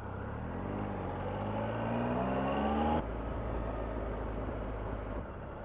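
Triumph Tiger 1200's three-cylinder engine pulling hard, its pitch rising steadily for about three seconds, then dropping suddenly at an upshift and running on steadily in the higher gear.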